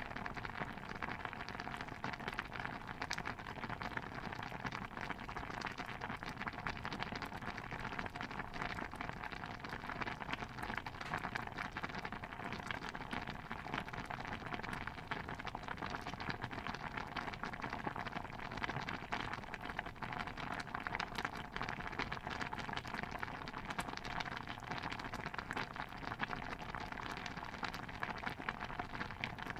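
Steady, dense crackle of countless tiny pops over a soft hiss, unchanging throughout: a layered kitchen ambience of bubbling and crackling.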